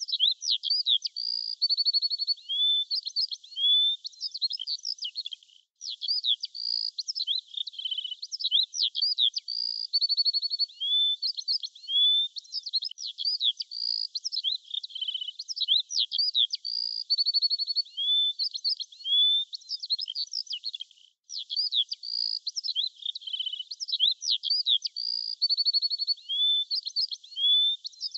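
A songbird singing: high chirps, rising whistles and quick trills. The same sequence of phrases repeats about every eight seconds, as in a looped recording, with two brief breaks.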